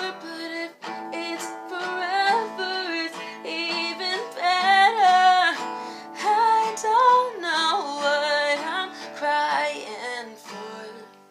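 A woman singing with acoustic guitar accompaniment, her voice gliding between held notes; the music fades near the end.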